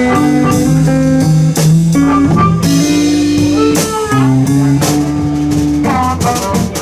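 Live blues band playing an instrumental passage between vocal lines: electric guitar over bass guitar and drum kit, with held notes and steady drum hits.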